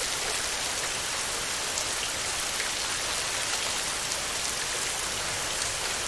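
Heavy rain falling steadily on a tin roof: a dense, even hiss flecked with fine ticks of single drops.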